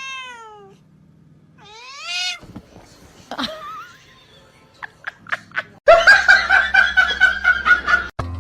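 A domestic cat meowing twice, each a short call that rises and falls in pitch, followed by a few light clicks. A loud, rapidly pulsing sound takes over for the last two seconds.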